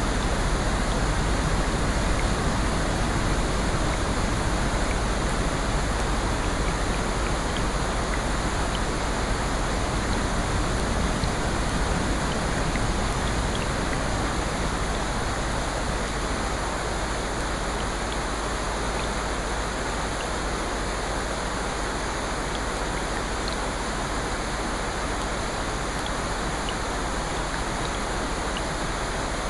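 Steady rain, an even rushing hiss with faint scattered drop ticks, easing very slightly in level.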